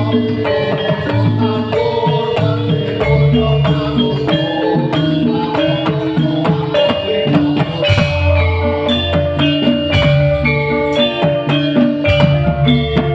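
Live band music: a bass line under held melodic notes, with drums and hand percussion keeping a steady beat.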